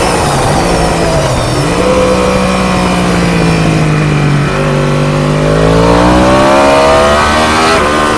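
Onboard sound of a 1000cc ST1000-class race motorcycle engine at racing pace: the revs dip about a second and a half in, then climb steadily, with the pitch stepping down at a gear change about halfway and again near the end, under a rush of wind noise.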